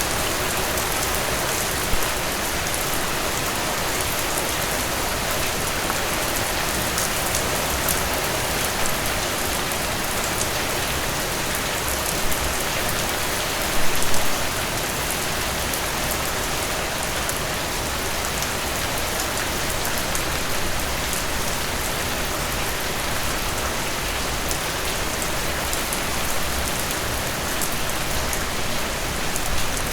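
Heavy rain falling steadily, a dense even hiss of drops on surfaces. A few brief louder spatters stand out, the biggest about 14 seconds in.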